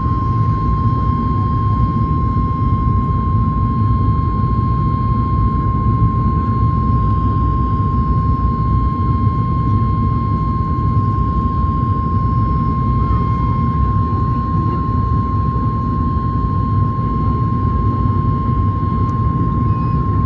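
Cabin noise of a Boeing 737 MAX 8 climbing: a steady low rumble of its CFM LEAP-1B engines and airflow, with a constant high whine over it.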